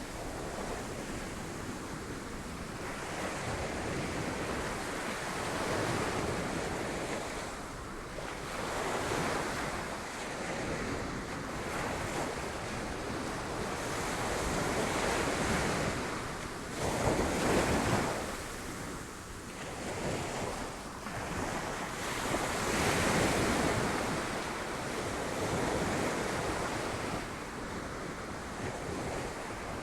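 Sea waves breaking on rocks: a continuous wash that swells and recedes every few seconds, the strongest surge about halfway through.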